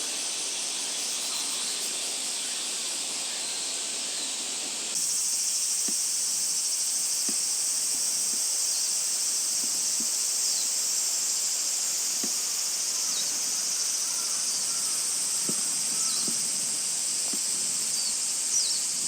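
Steady high-pitched drone of cicadas, louder from about five seconds in. Under it come faint, irregular taps of a small bird pecking like a woodpecker.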